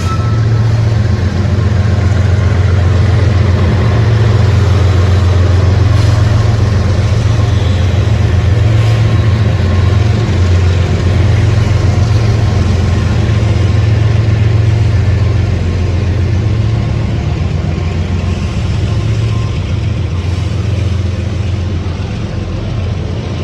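Norfolk Southern intermodal freight train rolling past: a loud, steady rumble of cars and wheels with a low drone under it, easing slightly in the last few seconds.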